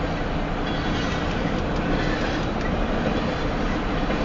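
Loaded freight cars of a long Union Pacific train rolling past at speed, a steady rumble with wheels clacking over the rail joints.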